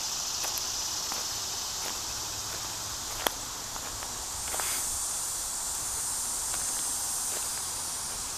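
Footsteps walking outdoors, faint and spaced, over a steady high hiss, with one sharp click a little past three seconds in.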